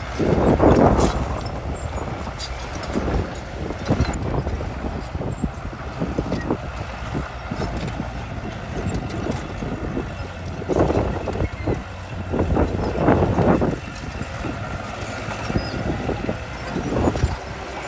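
D30H crawler bulldozer's diesel engine running under load, with frequent clanks and knocks from its tracks and blade while it pushes soil. The engine swells louder about a second in and twice more around two-thirds of the way through.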